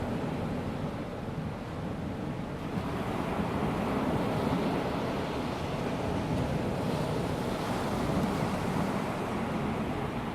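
Small waves of a calm sea washing onto a sandy beach: a steady wash of surf that swells louder through the middle and eases off near the end.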